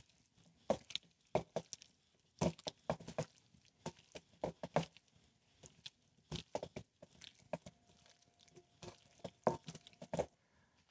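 Raw chicken wings tossed by hand with oil and dry spices in a mixing bowl: short, irregular wet slaps and clicks as the pieces are turned over.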